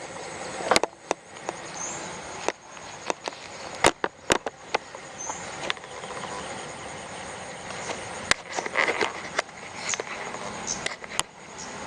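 Rural outdoor ambience: a steady hiss of background noise with a short high chirp repeating every few seconds, broken by irregular sharp clicks and knocks.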